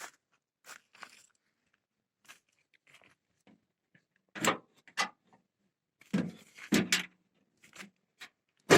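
Irregular knocks and clatter of objects being handled: a few faint taps, then several louder knocks from about halfway through, the loudest at the very end.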